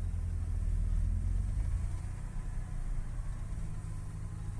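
Car engine running while driving, a steady low hum, a little louder over the first two seconds and then easing off.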